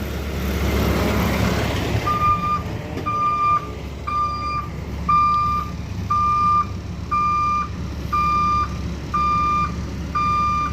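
Peterbilt 520 McNeilus ZR garbage truck reversing: its backup alarm sounds a plain single-tone beep about once a second, starting about two seconds in, over the steady rumble of the running engine. A rush of noise fades out before the beeps begin.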